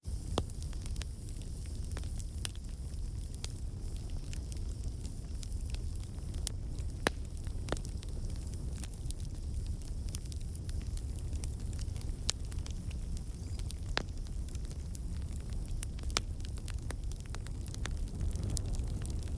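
Wood campfire burning: a steady low rumble of flames, with irregular sharp crackles and pops from the burning logs.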